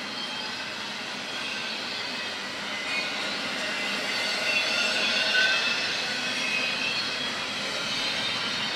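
Double-stack intermodal well cars rolling past on steel rails, a steady run of wheel noise with high, wavering wheel squeal over it, loudest about five seconds in.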